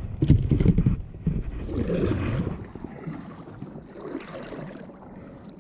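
Water sloshing and splashing around a kayak, as from paddle strokes, loudest in the first second and again about two seconds in, then quieter.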